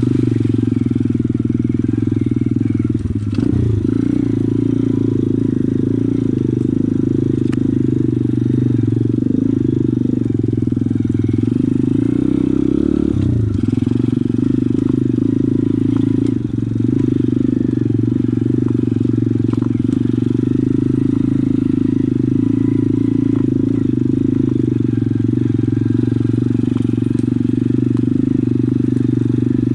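Pit bike's single-cylinder engine running steadily under way, with brief changes in the engine note about three seconds in and again near the middle.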